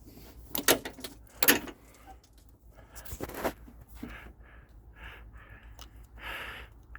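Metal tool clanks and rattling while a 10 mm thermostat-housing bolt is worked loose: two sharp clanks about a second in, a rattling stretch near the middle, then softer knocks.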